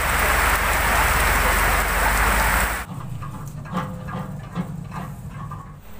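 A loud, steady rushing noise with a deep rumble, like heavy rain, that cuts off abruptly about three seconds in, leaving a quieter low hum with a few scattered knocks.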